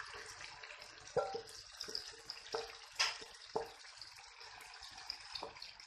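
Onion-tomato masala sizzling in a hot pan as yogurt-marinated chicken is tipped in, with about five short knocks of a utensil or bowl against the pan.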